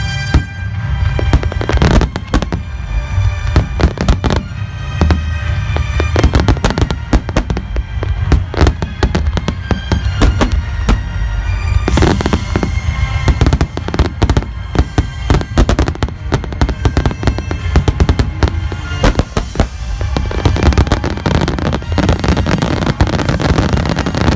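Dense fireworks display: aerial shells bursting in rapid succession, booming and crackling, with music playing alongside.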